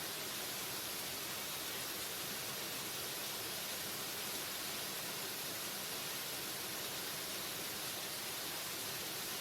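Waterfall: a steady, unchanging rush of falling water, heavy in hiss.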